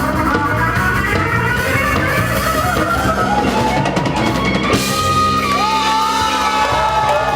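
Live rock band with drum kit, guitar and bass playing loud and dense, then a final hit about two-thirds of the way in. After it, held guitar and bass notes ring out with slight bends as the song ends.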